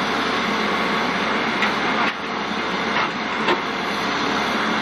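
Backhoe's engine running steadily, with a few light knocks over it.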